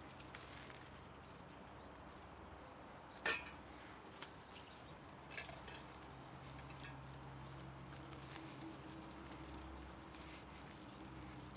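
Metal parts and hand tools being handled while an electric motor is taken apart for scrap: one sharp click about three seconds in and a few fainter ticks and taps after it, over a low steady hum.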